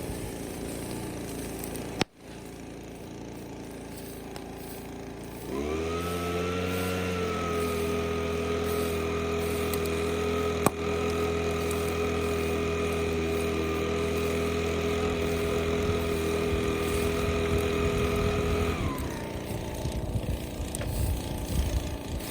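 An engine runs at a steady pitch for about thirteen seconds, rising as it comes in and sagging as it stops. A sharp click comes before it starts and another in the middle.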